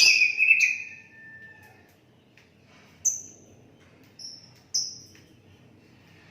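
Sooty-headed bulbul (kutilang) whistling: a loud warbled phrase right at the start lasting about a second, then three short high whistled notes about three to five seconds in.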